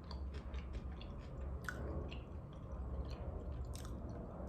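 Close-miked mouth sounds of eating: chewing with scattered short, wet clicks and smacks.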